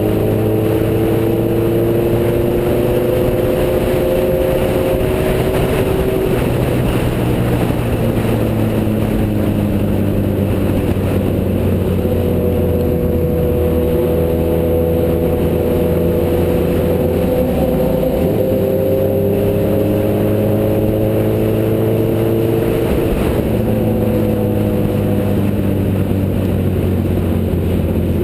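Motorcycle engine running at road speed, its pitch climbing slowly and dropping back at gear changes about 6 seconds in and again near the end, over a steady low rumble of wind.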